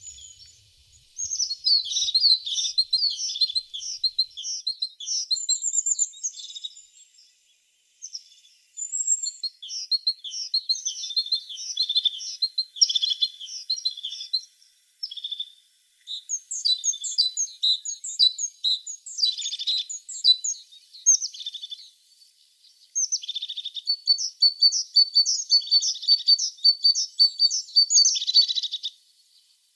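Blue tit singing: runs of quick, high chirping notes lasting a few seconds each, broken by short pauses.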